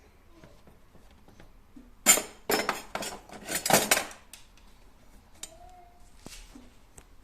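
Metal kitchen utensils clinking and rattling against each other as they are handled in a kitchen drawer, a quick run of clatter about two seconds in that lasts about two seconds.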